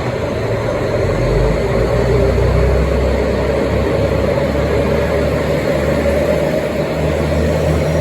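KiHa 201 series diesel railcar running under power: a steady, loud engine and running rumble with a hum, whose lowest notes shift a little about halfway through.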